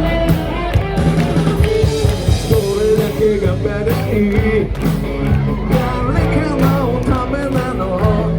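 Live rock band playing: electric guitar, bass and drum kit with a sung melody over a steady beat.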